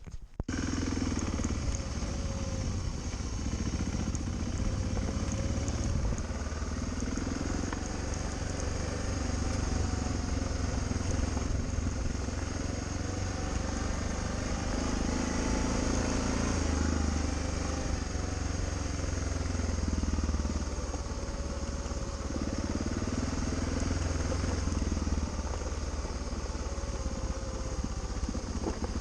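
Motorcycle engine running steadily while riding along a rough track, with wind and road noise over the microphone and the engine note rising and falling slightly.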